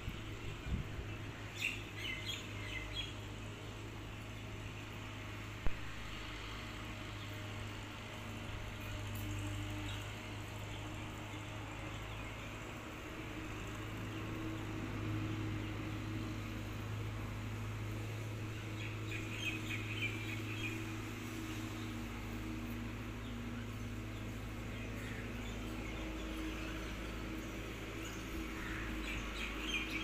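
Birds chirping in a few short, high bursts over a steady low hum, with a single sharp click about five and a half seconds in.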